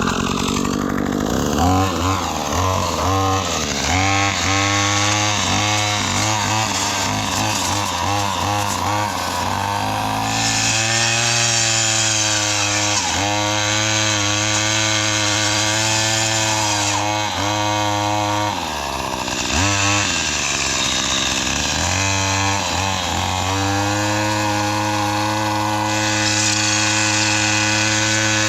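Gas string trimmer with a chainsaw-tooth brush cutter blade, its small engine running hard while cutting saplings. The throttle is blipped rapidly for the first several seconds, then held high with a few brief dips in engine speed and one longer slowdown about two-thirds of the way through.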